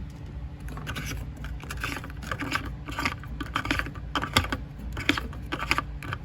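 Irregular plastic clicks and knocks as the washing machine's drain pump filter cap is turned back into its housing, over a low steady hum.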